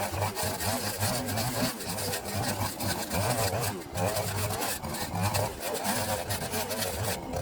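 A small engine running with an uneven, pulsing hum.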